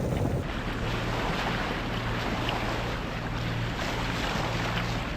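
Sailboat under way in calm water: a steady low engine drone under an even hiss of water along the hull and wind on the microphone.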